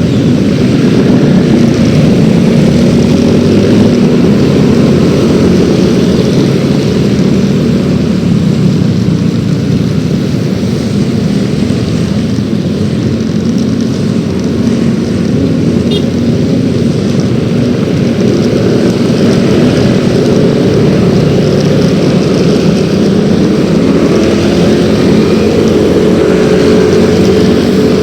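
Yamaha X-Ride 113cc single-cylinder scooter engine running steadily while under way. The pitch rises slightly in the last few seconds.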